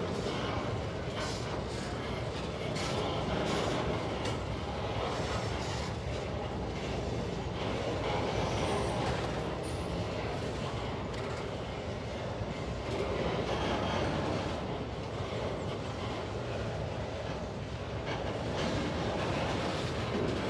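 Empty freight wagons of a long train rolling past at speed, a steady rumble of wheels on rail with light clatter and swells as the cars go by.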